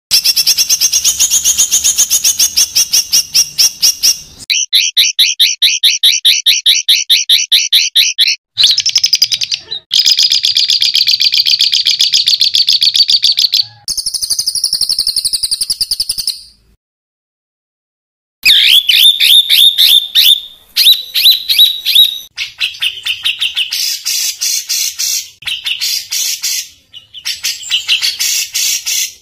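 Songbird singing 'tembakan kasar', the rough rapid-fire song used as a masteran for cage birds. It comes as fast runs of repeated harsh high notes, in several stretches of a few seconds each, broken by abrupt cuts and about two seconds of silence in the middle.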